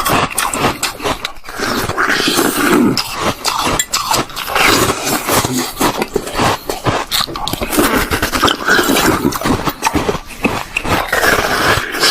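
Close-miked crunching and chewing of frozen milk ice, a dense, unbroken run of crisp crunches.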